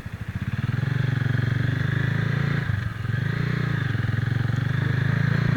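Motorcycle engine pulling away and running under load, getting louder about half a second in, with a brief dip about three seconds in before it picks up again.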